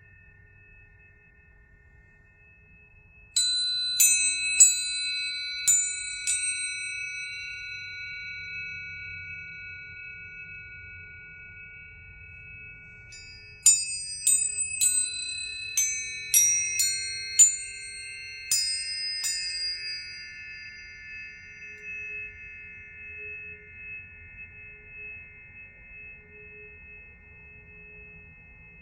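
Biosonics planetary tuning forks struck one after another, each strike a sharp click followed by long, clear ringing tones that overlap and fade slowly. A first group of about five strikes comes a few seconds in, and a second group of about eight comes near the middle.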